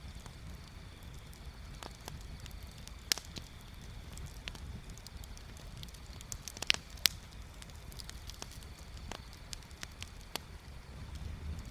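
Bonfire crackling: scattered sharp pops and snaps of burning wood over a low, steady rumble. The loudest snap comes about three seconds in, and a quick cluster of snaps comes around seven seconds.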